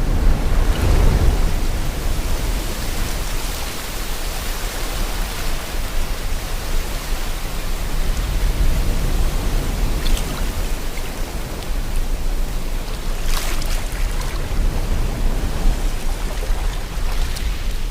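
Sea water and wind making a steady rushing noise with a deep rumble underneath, and a few brief, sharper splashes about ten and thirteen seconds in.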